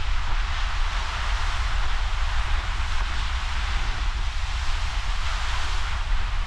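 Steady wind buffeting the microphone, a low rumble under an even hiss of ocean surf.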